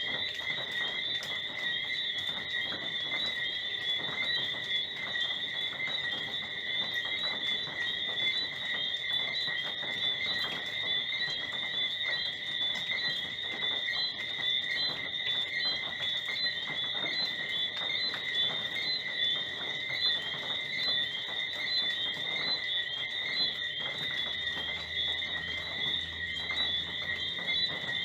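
Nocturnal rainforest chorus of frogs and insects: dense, steady high-pitched trilling and chirping, with many short clicking calls throughout. A faint low hum comes in near the end.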